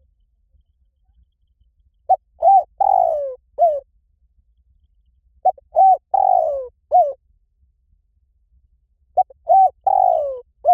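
Spotted dove cooing: three identical phrases about three and a half seconds apart. Each phrase is two short coos, then a longer coo falling in pitch, then a short closing note.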